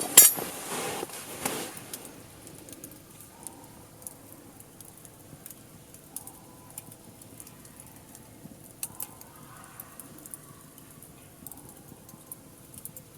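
Wood fire burning in a steel fire pit, crackling with scattered sharp pops. A loud clattering rustle comes in the first two seconds, as the fire or its pit is handled.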